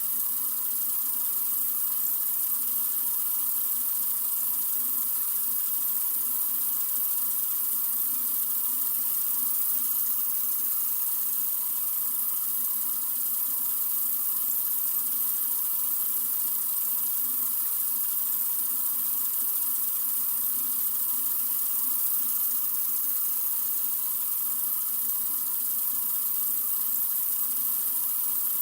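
Water running steadily from a sink faucet, an even stream with no change in flow.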